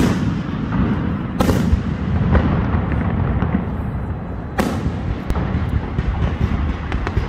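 Fireworks display: aerial shells bursting overhead in a constant low rumble of bangs and crackles, with two especially sharp bangs about a second and a half and four and a half seconds in.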